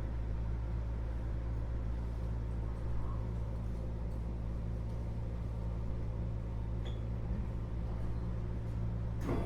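Keio 8000 series electric train running, heard from inside the car above its GTO-VVVF main controller: a steady low rumble and hum. A short sharp knock comes near the end.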